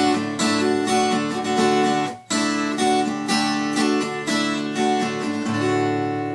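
Acoustic guitar strummed in a steady rhythm through the song's closing bars. There is a brief break about two seconds in, then a final chord is left to ring and fade near the end.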